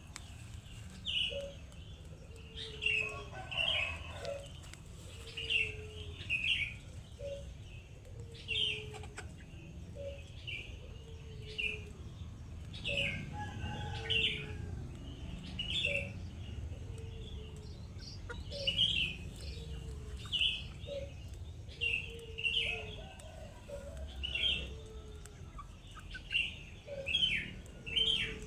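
Birds chirping: short high chirps repeated every second or so, with lower, shorter falling calls between them, over a steady low rumble.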